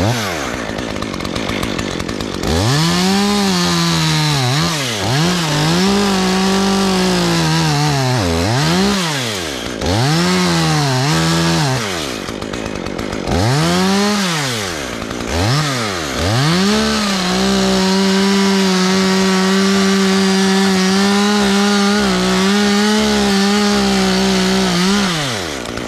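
Chainsaw cutting into a tree limb, likely making an undercut. The throttle is opened and released about six times, the pitch climbing and falling each time. Then it is held wide open for about eight seconds near the end before dropping back.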